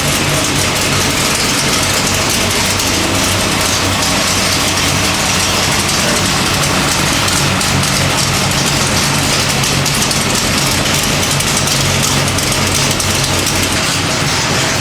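Small-block Chevy 427 stroker V8 with AFR cylinder heads running at a steady speed on an engine dyno, loud and even with no revving.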